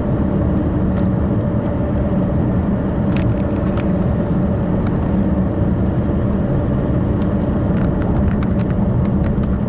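Steady road and engine noise inside a moving car, with a few faint clicks scattered through it.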